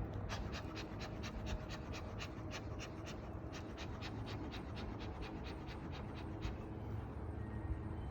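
A beekeeper's smoker bellows being pumped: a rapid run of breathy puffs, about four a second, that stops about five seconds in. This is smoke being puffed into the hive to calm the bees.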